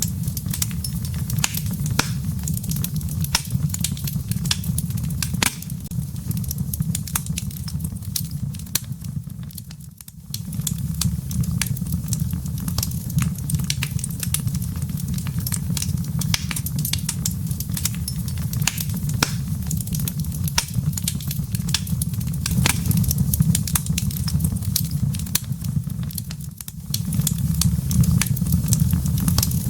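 Wood fire in a fireplace crackling, with many sharp pops over a steady low rumble of the flames. The sound dips briefly twice.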